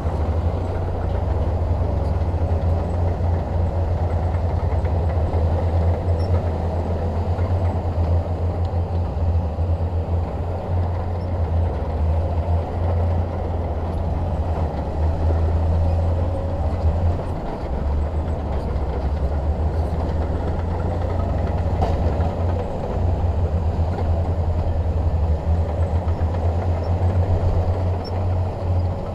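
Shantui DH17 bulldozer's diesel engine running steadily with a deep, continuous rumble.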